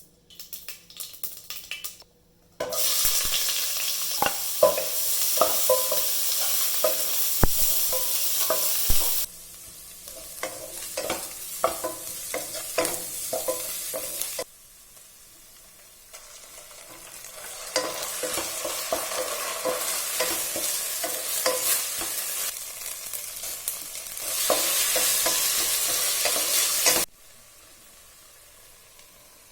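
Food frying and sizzling in hot oil in a pan while a spoon stirs it, with frequent clicks and scrapes against the pan. The sizzle comes in several stretches that start and stop abruptly, louder in some than others.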